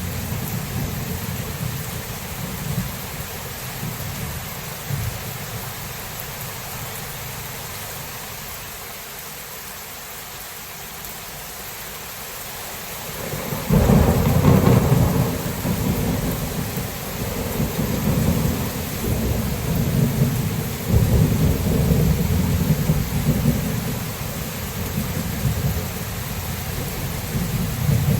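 Thunderstorm: steady heavy rain with rolling thunder. The rumble dies down through the first half, then a loud thunderclap breaks about halfway through and rolls on in waves.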